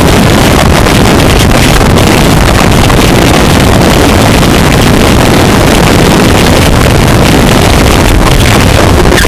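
Harsh noise music: a loud, dense, heavily distorted wall of noise made from processed forge recordings, steady throughout with no clear hammer strokes or rhythm.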